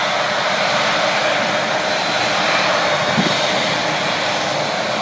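Jet airliner engines running with a steady rushing noise and a faint high whine.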